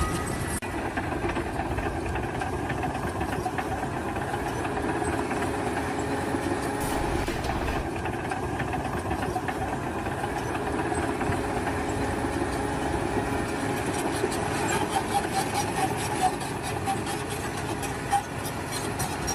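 Heavy machinery engine running steadily, with a run of sharp clicks and knocks near the end.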